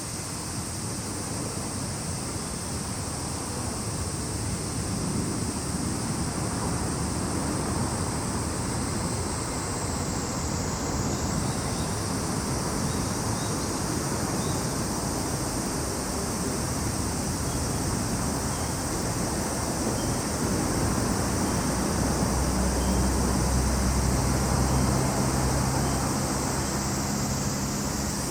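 Cicadas singing as a steady, high, continuous chorus, with a low rumble of wind on the microphone underneath. A low hum joins it about two thirds of the way through and fades near the end.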